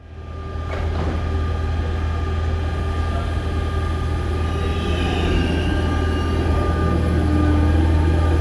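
Double-deck RER C electric commuter train pulling out of an underground station: a steady low hum from the traction equipment with several electric whine tones. The sound fades in at the start, a higher whine rises about five seconds in, and it grows a little louder near the end.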